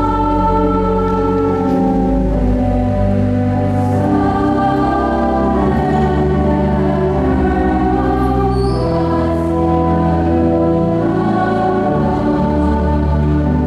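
A choir singing sustained chords with instrumental accompaniment, over long, steady deep bass notes.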